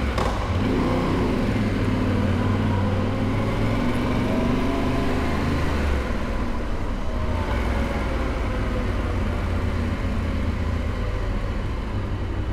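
Yamaha Ténéré 700's parallel-twin engine running under way, with the rush of wind and road. Its pitch rises slowly over the first few seconds, and the sound shifts about halfway through.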